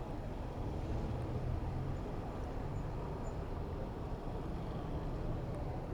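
Steady rumble of wind buffeting the microphone and road and traffic noise while riding a bicycle through city traffic, even and unbroken, with no distinct events standing out.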